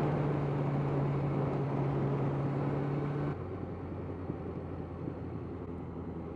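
Suzuki GSX650F's inline-four engine running at steady revs under wind rush. A little over three seconds in, the engine note fades and the sound gets quieter.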